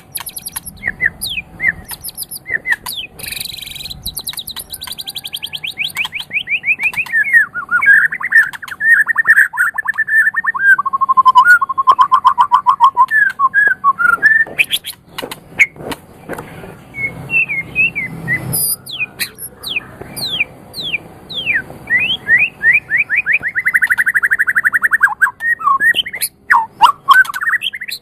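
White-rumped shama (murai batu) singing a long, varied song: fast trills and runs of rapidly repeated notes, sweeping whistles, and sharp clicking chips.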